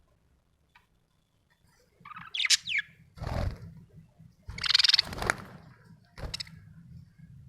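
Budgerigar chirping and chattering in about four short bursts, starting about two seconds in. The first is quick gliding whistled notes, and the louder ones after it are scratchy chatter.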